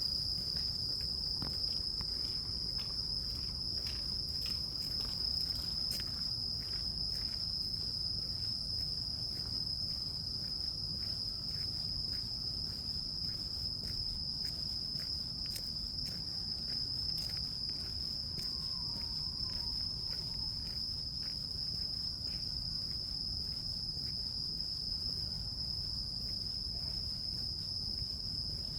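Grass insects singing, one continuous high-pitched trill that holds steady without a break, over a low background rumble.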